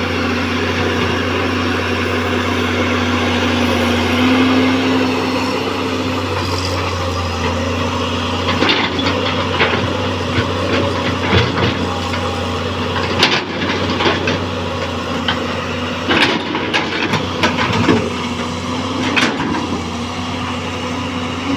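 Caterpillar excavator's diesel engine running steadily under load as the machine struggles to climb out of soft mud. From about eight seconds in, repeated metal clanks and knocks, from the tracks and the bucket pushing against the ground, sound over the engine.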